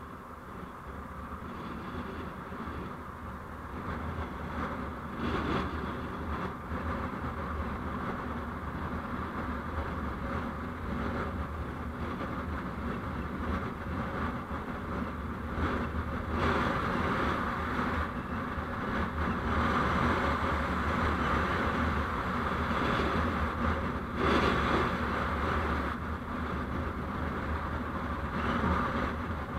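Steady road and engine noise of a moving vehicle, recorded by a dashcam: a low hum under tyre and wind noise that grows louder through the first half.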